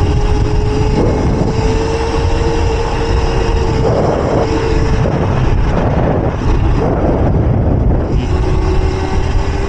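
Electric mini bike's motor whining at a steady pitch while riding, over heavy wind rumble on the microphone. The whine drops out for a few seconds past the middle and comes back near the end.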